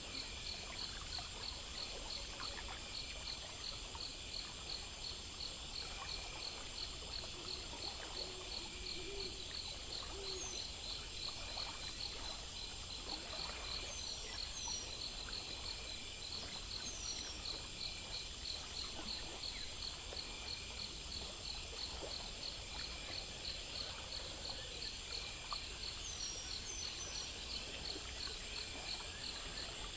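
Night-time nature ambience: insects chirping in a steady, even pulse, about three chirps a second, over a soft continuous hiss. A few low hoots come about eight seconds in, and short high chirps now and then.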